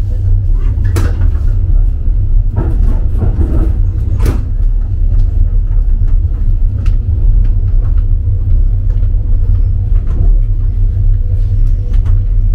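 Steady low rumble of a moving passenger train, heard from inside a compartment car, with a few brief knocks in the first four seconds.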